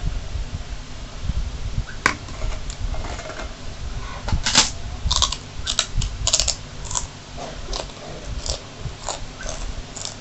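Close-up eating sounds: mouthfuls of fried instant noodles being chewed, then a kerupuk cracker bitten and crunched, with a quick run of crisp crunches from about four seconds in.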